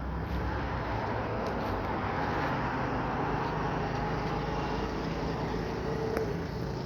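A car's engine and road noise, a steady mechanical rumble and hiss that swells slightly a second or two in.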